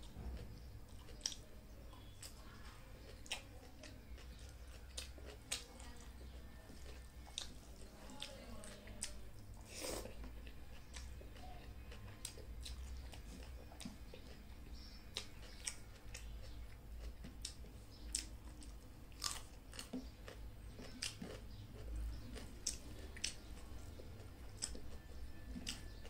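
Close-up eating sounds: a person chewing mouthfuls of rice and salad eaten by hand, with frequent irregular sharp wet mouth clicks and smacks.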